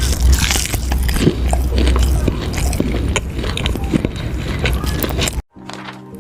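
Close-miked biting and chewing of cheese ribs: a thick run of small crunching clicks over a low mouth-and-handling rumble. It cuts off suddenly about five and a half seconds in, and music with steady held notes begins.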